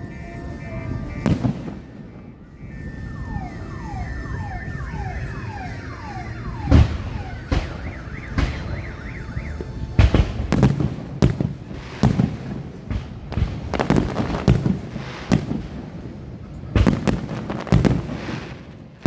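Fireworks display: aerial shells bursting with sharp bangs, a few at first and then a rapid run of them through the second half. Over the first six seconds or so a car alarm sounds, cycling through stepped tones and then a string of falling sweeps.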